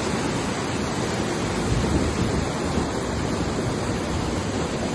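Fast-flowing floodwater rushing and churning in a steady, loud wash.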